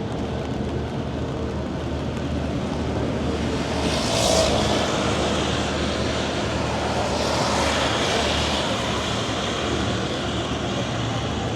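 Steady low rumble of city traffic, with two louder vehicles passing about four seconds and about seven to eight seconds in.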